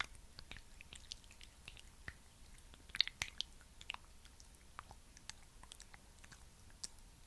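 Thick, sticky skincare cream worked close to the microphone, making scattered small wet clicks and crackles, with a quick cluster about three seconds in.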